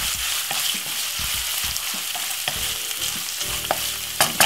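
Flaked saltfish sizzles steadily in hot vegetable oil in a non-stick frying pan while a wooden spoon stirs it, scraping and knocking now and then. Near the end the spoon knocks against the pan in a quick run.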